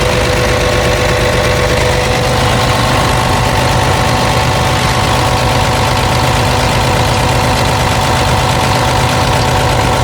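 The six-cylinder diesel engine of a Komatsu PC490LC-11 excavator, heard up close, idling steadily. It runs clean, with no blow-by and no knocks or ticks.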